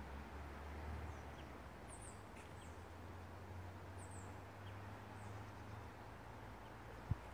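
Faint, high-pitched songbird chirps, short calls every second or so, over a low steady rumble. A single sharp click near the end.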